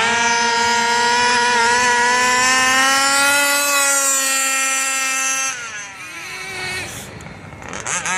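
A radio-controlled car's motor revving high and holding a steady high-pitched whine for about five seconds, then falling off in pitch as it is backed off.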